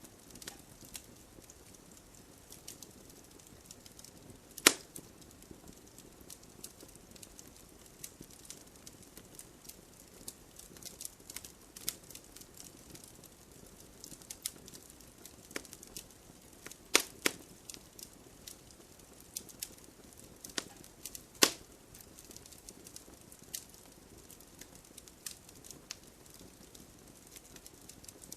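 Wood campfire crackling: irregular sharp pops and snaps over a faint steady hiss, with a few louder pops, the strongest about five seconds in and two more around two-thirds of the way through.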